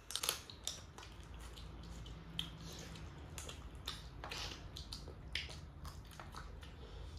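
Someone chewing and biting into chicken, with scattered small crunching clicks, over a low steady hum.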